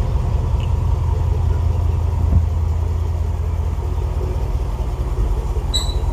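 2018 Range Rover SVR's 5.0-litre supercharged V8 idling with a steady low exhaust rumble, with a single faint knock partway through and a brief high chirp near the end.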